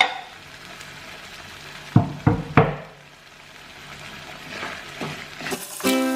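Rendang spice paste with palm sugar frying and sizzling in a pan, with a utensil knocking against the pan three times about two seconds in as it is stirred. Music begins near the end.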